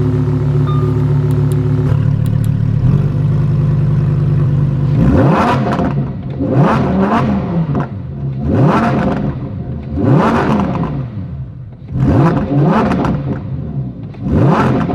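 Lamborghini Huracán Performante's naturally aspirated V10 idling, then revved hard about six times from about five seconds in, each rev a quick rise in pitch that drops straight back to idle. A few short beeps sound at the start.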